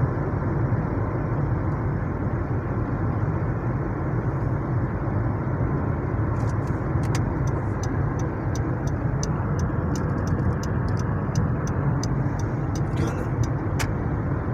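Steady low rumbling noise, even throughout, with a run of faint sharp high ticks, about two a second, from about halfway to near the end.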